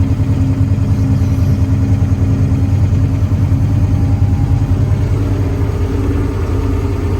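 Water truck's engine running steadily at low speed in first gear while spraying the dirt track.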